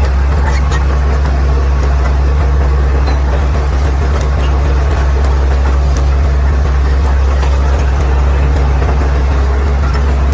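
Caterpillar D6R XL bulldozer's diesel engine running at a steady, deep drone, with a few faint clicks over it.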